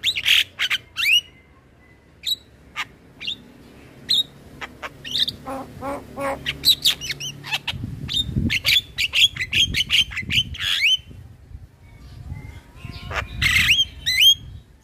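Male Javan myna singing in bursts of quick harsh chattering notes mixed with short rising whistles, with brief gaps between phrases.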